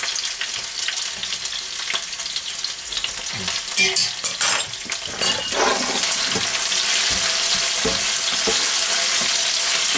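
Sliced onions sizzling in hot oil in a wok while a spatula stirs them, with short clicks and scrapes of the spatula against the pan. The sizzle grows louder and steadier about halfway through.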